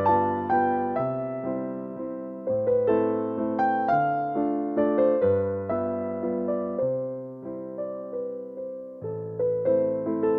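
Background music: a slow, gentle piano piece, single melody notes over low bass notes that ring and fade.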